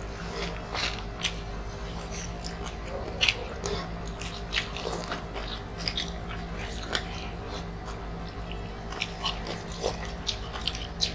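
Close-up eating sounds of people chewing grilled chicken and rice eaten by hand: frequent short wet smacks and clicks over a steady low hum.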